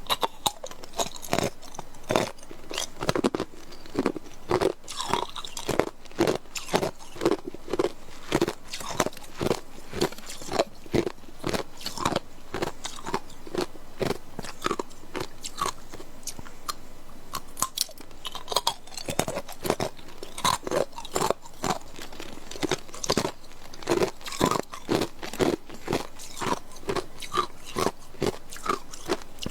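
A person biting and chewing hard clear ice cubes: a steady run of sharp, crackly crunches, about two a second.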